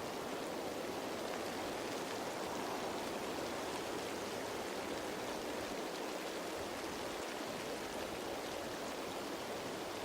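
Steady rain falling on leaves, an even hiss of many small drops with no single drop standing out.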